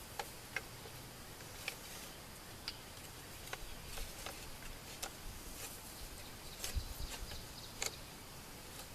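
Wooden sticks clicking and knocking against one another at irregular intervals as they are laid into a stick-built bird trap, with a few duller knocks about seven seconds in.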